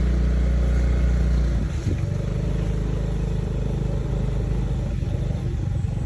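Motor vehicle engine running during a ride, a steady low hum that drops and turns rougher and uneven about a second and a half in, with a few short knocks.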